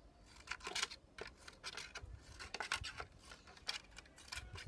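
Scissors snipping through the thin plastic of a milk bottle: a run of short, sharp, irregular cuts.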